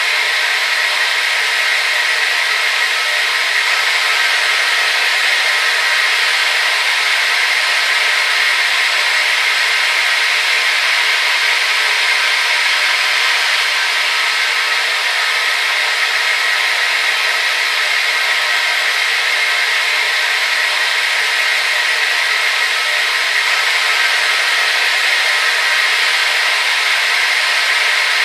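Hair dryer running continuously: a steady whoosh of blown air over its motor's whine, strongest in the upper-middle range.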